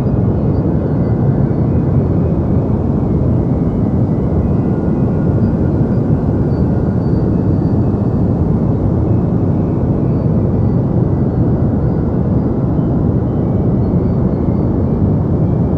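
Deep white noise: a steady, unchanging rush that is heavy in the bass and dull in the treble, like a soft continuous rumble.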